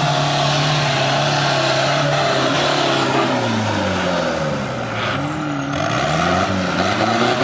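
Off-road 4x4 engines running. One holds a steady pitch at first; from about halfway through, engine pitches rise and fall and cross one another as the engines are revved.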